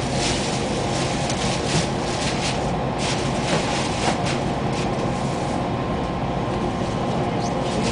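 Amtrak passenger train running, heard from inside the carriage: a steady rumble with a run of irregular rattles and clacks through roughly the first half.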